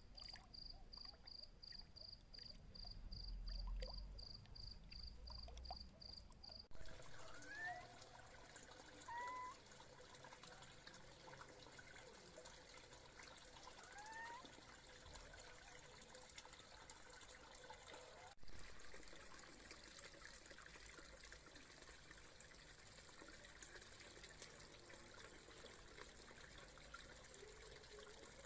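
A cricket chirping in a steady, even rhythm of about two to three chirps a second, then, after a sudden change about seven seconds in, faint trickling water with a few short rising notes.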